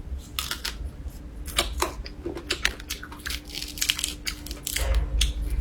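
Close-miked eating of seafood: a quick run of wet mouth clicks and crunchy crackles, several a second, as the food is bitten and chewed.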